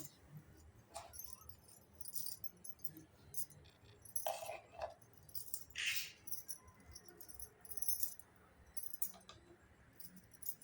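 Small pieces of a Hello Kitty miniature toy kitchen set clinking and rattling as they are handled, in a series of short, separate clatters.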